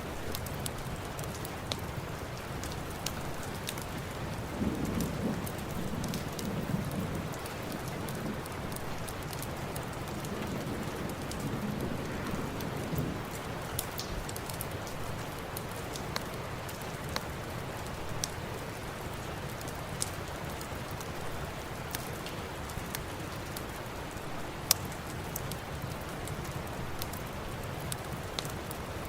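Steady rain falling, with a few sharp pops from a crackling wood fire scattered through it. A low rumble swells from about four seconds in and fades by about thirteen seconds.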